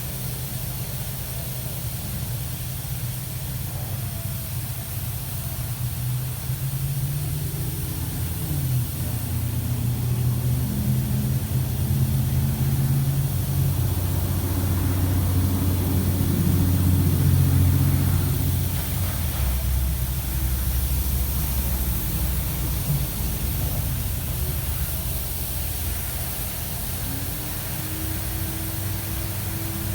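PDQ LaserWash 360 touchless car wash running, with a steady hiss of spray and the hum of its pumps and moving gantry shifting in pitch. It grows loudest about halfway through, then eases.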